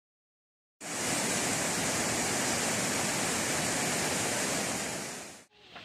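Heavy rain pouring onto a corrugated metal roof, a dense steady hiss. It starts abruptly about a second in and cuts off shortly before the end.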